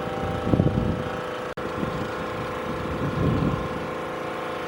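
A steady mechanical hum with several held tones, typical of an engine running nearby. Wind buffets the microphone in two gusts, about half a second in and again about three seconds in, and the sound cuts out for an instant at about a second and a half.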